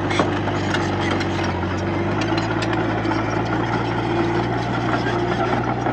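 Diesel engine of a Komatsu D31P crawler bulldozer running steadily, with a deep hum. A few light clanks sound in the first couple of seconds.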